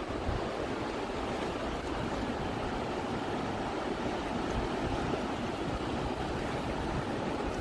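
Fast-flowing river water rushing steadily, an even noise with no breaks.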